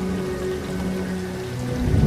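Steady rain pattering, with soft sustained low notes of an ambient music bed under it. A low rumble of thunder swells in near the end.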